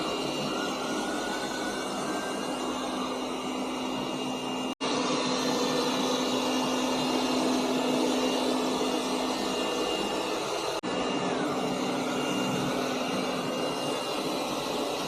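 Eureka J15 Ultra robot vacuum running: a steady whir of its suction fan with a constant high whine and a low hum. The sound drops out briefly twice, about five and about eleven seconds in.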